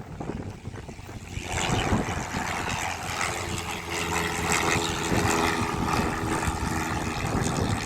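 An aircraft's engine, loud and close, growing louder about a second and a half in and holding a steady hum, over wind buffeting the microphone.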